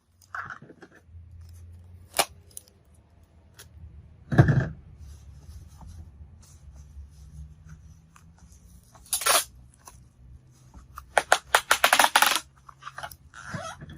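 Packing padding being handled and cut around an amplifier: scattered rustles and clicks, a dull thud about four seconds in, and a quick run of sharp crackling strokes near the end.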